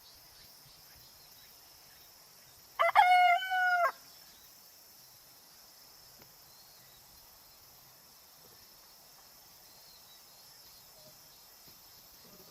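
A rooster crowing once, about a second long, a few seconds in, over a faint steady chirring of insects.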